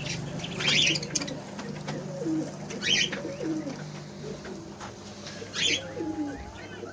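Pigeons cooing several times, with short high chirps from small cage birds now and then.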